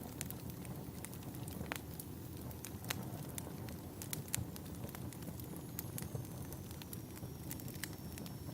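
Wood fire crackling in a fireplace: irregular sharp pops and snaps over a steady low noise of the burning logs.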